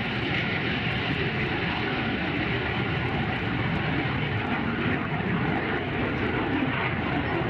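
Steady jet engine noise from a vintage jet fighter, holding an even level throughout.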